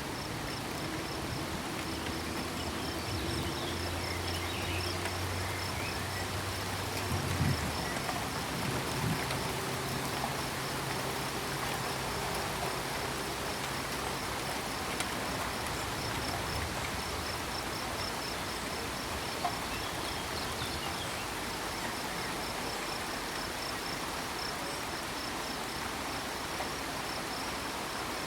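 Steady rain hiss with crickets chirping in a fast, even pulse throughout. Low frog calls sound through the first half, with a couple of louder knocks around the middle.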